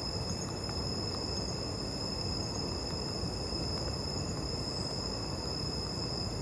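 Steady hiss with a constant high-pitched insect drone, typical of crickets chirping at night.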